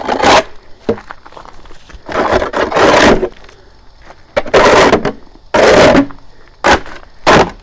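Snow shovel scraping over ice-crusted snow in several long strokes, with two short, sharp chops near the end.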